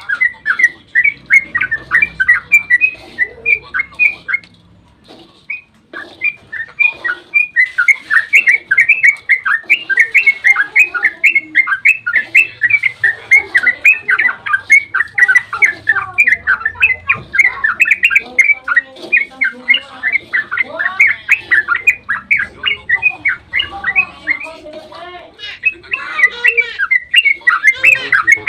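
Yellow-vented bulbul (trucukan) singing a long, rapid run of short, bubbling notes, several a second, with a short pause near the start before the run resumes. This is the excited 'ropel' song used as a lure to make other bulbuls answer.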